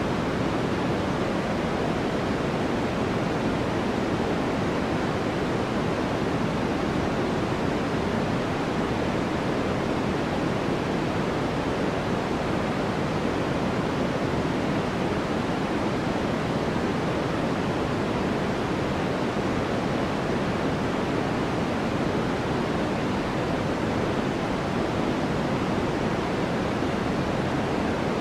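Steady white-noise track: an even, unchanging hiss, deeper rather than bright, with no breaks or other events.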